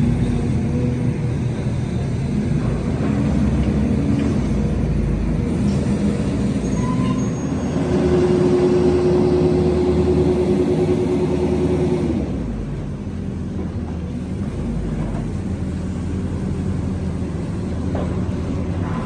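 RC construction models at work: a steady diesel-like engine drone, with a higher steady whine held for about four seconds in the middle before the sound drops a little.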